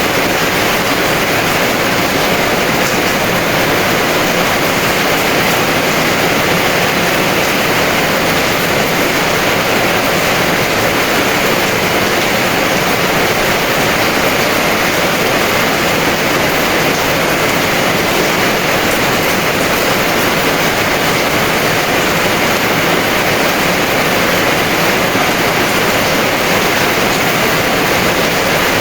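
Heavy rain falling steadily, a dense unbroken hiss of downpour.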